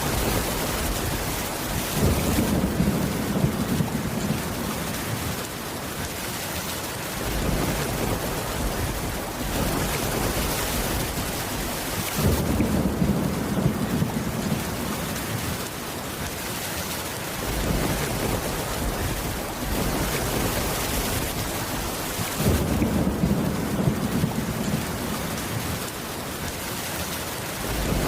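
Steady heavy rain on a roof, with a low thunder rumble rolling in three times, about 2, 12 and 22 seconds in, each lasting a few seconds.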